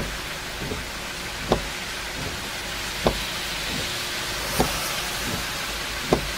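Swollen river rushing steadily in flood after a typhoon. Regular dull thumps come about every three-quarters of a second, alternating stronger and weaker.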